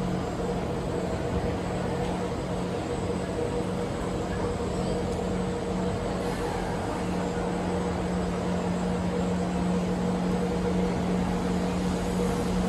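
Steady hum of an MRT train standing at the platform with its doors open, its on-board equipment droning at a constant low pitch over general platform ambience.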